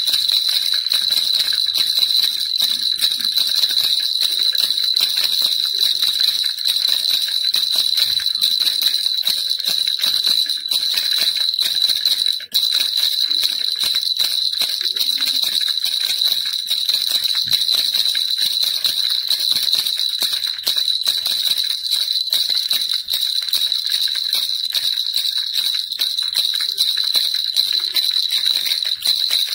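Baby rattle (kilukiluppai) shaken steadily: a dense, continuous stream of small jingling clicks with a bright ringing tone, broken once by a brief pause about halfway through.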